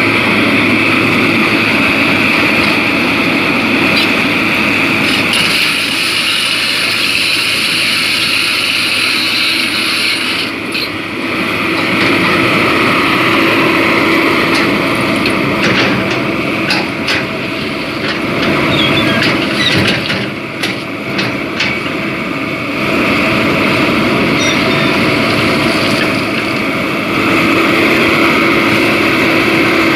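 Excavator's diesel engine running steadily, with a series of short knocks or clanks in the middle.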